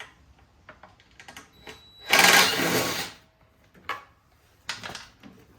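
A tool backing out a small 10 mm bolt on a lawnmower: a loud burst of rapid mechanical rattling about a second long, about two seconds in, with light clicks and knocks of metal parts before and after.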